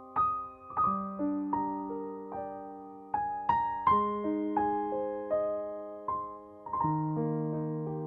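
Slow, gentle piano music: single notes and chords struck every half second or so, each ringing on and fading.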